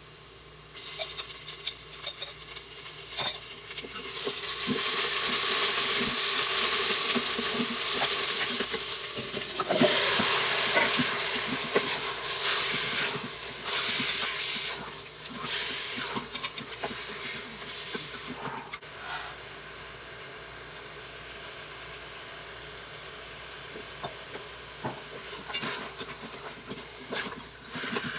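Raw lamb pieces and ginger-garlic paste sizzling in hot oil among fried onions in the Instant Pot's stainless-steel inner pot on sauté, with a wooden spoon stirring and scraping. The sizzle jumps up about four seconds in as the food hits the hot oil, then slowly dies down.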